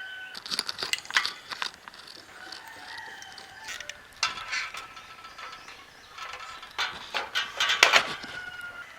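Chickens calling, with held notes, mixed with a scatter of sharp clicks and knocks that are loudest about a second in and again near the end.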